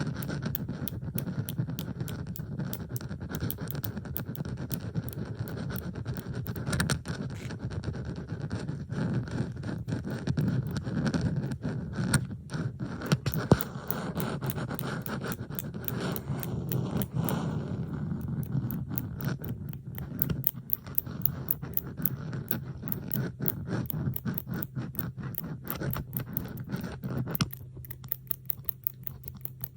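Metal bobby pins being handled, scraped and clicked, several tracks layered into a dense mix of scratching and quick little clicks. Near the end the scraping drops away and only the clicking goes on.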